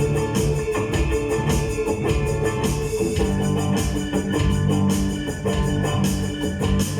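A band playing an instrumental passage of a rock song: guitar over a drum kit with a steady beat.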